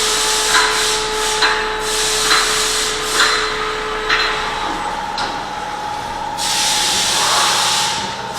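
Workshop noise in a car service bay. A steady machine hum runs under short scuffing or hissing sounds that come about once a second, and a longer hiss of air comes near the end.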